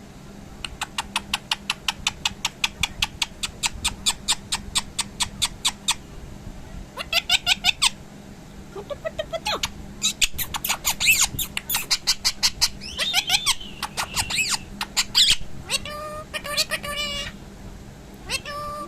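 A pet parrot calling: a fast, even run of short clicking calls, about six a second, for roughly five seconds, then bursts of squawks and whistled chatter with rising and bending pitches, some with a voice-like tone near the end.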